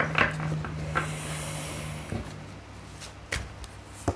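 Oracle cards being shuffled and handled: a few sharp taps and slaps of the cards, over a steady low hum.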